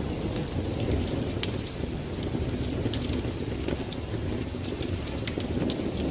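Fireplace wood fire crackling, with irregular sharp pops over a steady low rumble.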